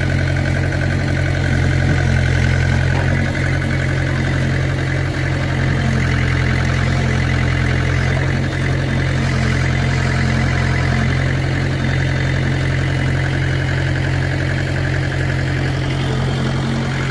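Mahindra tractor's diesel engine running steadily at an even speed, with no revving.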